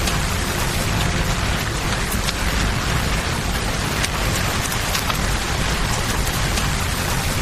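Steady rain falling, mixed with the low rush of flowing water and scattered sharp crackles from a campfire.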